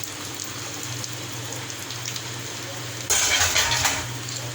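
Hot oil on a tawa sizzling softly, then about three seconds in an egg hits the hot oil with a sudden loud sizzle that fades after about a second as it starts to fry.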